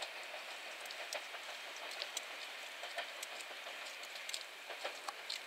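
Six-car JNR KiHa 40-series diesel railcar train heard faintly as it runs away into the distance: a steady noise of the train on the track, with scattered sharp clicks.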